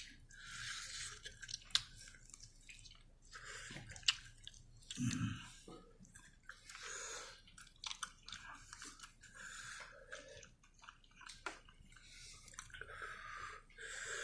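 A person chewing chicken wings close to the microphone, in irregular bursts with small sharp clicks and wet mouth sounds.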